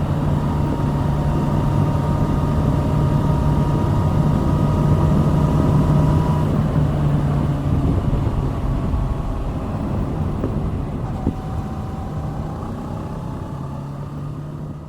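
Kawasaki Z650's 649 cc parallel-twin engine running at a steady pitch while the bike is ridden. About six seconds in the throttle is eased off and it gets quieter, and near the end the engine note builds again.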